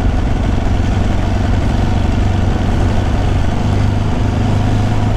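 Ducati sport motorcycle engine running steadily at low revs while cruising at town speed, with road and wind noise beneath. The engine note firms a little after about three and a half seconds as the bike gently picks up speed.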